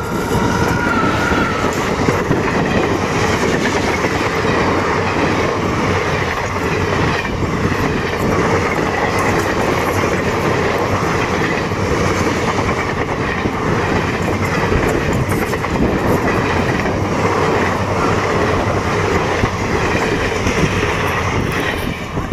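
Passenger train passing close by at speed: a loud, steady rush and clatter of wheels on the rails as the locomotive and coaches go by, dropping away near the end as the last coach passes.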